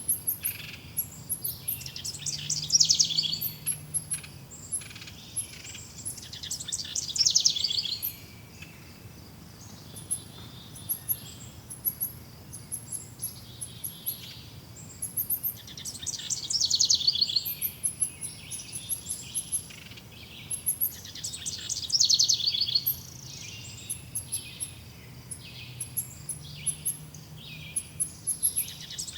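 Several birds singing and chirping: loud trilled song phrases of about a second come back every four or five seconds over a constant scatter of high, thin chirps.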